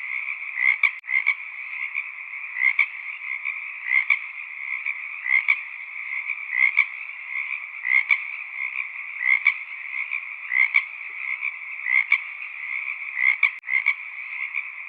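Frog chorus: a dense, steady mass of calling frogs with a louder croak standing out at an even pace, about three every four seconds.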